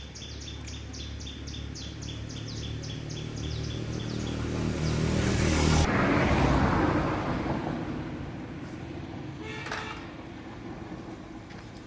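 A motor vehicle passing by: engine hum and road noise swell to a peak about six seconds in, then fade. Rapid rhythmic high chirping fades out in the first three seconds, and a brief horn-like toot sounds near the end.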